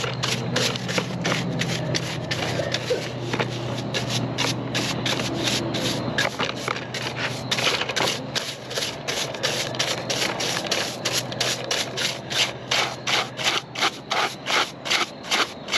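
Rapid, rhythmic rubbing or scraping strokes, about two to three a second, over a steady low hum that fades out about two-thirds of the way through.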